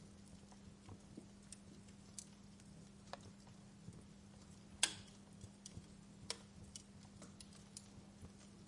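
Wood fire crackling: scattered sharp pops and snaps at irregular intervals, one louder pop about five seconds in, over a steady low hum.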